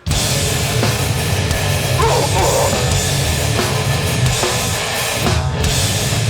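Hardcore band playing live at full volume, distorted guitars, bass and drums crashing in together on the first beat of a song. About five and a half seconds in the cymbals and high end drop out briefly before the band hits again.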